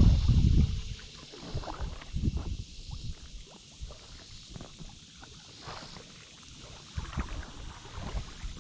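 Kayak paddling on the water: irregular paddle splashes and drips. A loud low rumble, like wind buffeting the microphone, fills the first half second or so.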